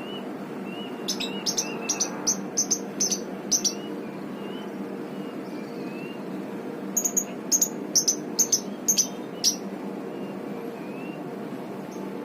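Lovebird giving two runs of sharp, shrill chirps in quick succession, about seven each, the first starting about a second in and the second about seven seconds in. Fainter short rising notes repeat between them, over a steady low hum.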